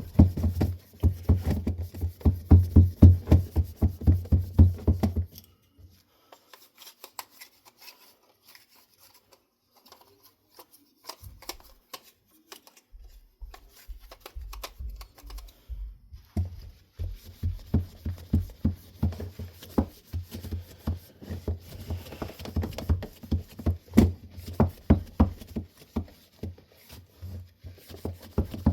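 Handling noise: a rapid, irregular run of clicks and knocks with low thuds, stopping for about five seconds in the middle and then starting again.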